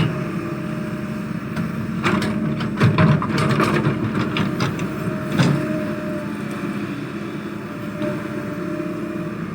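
Excavator's diesel engine running steadily, with bursts of sharp knocks about two to three and a half seconds in and again near the middle.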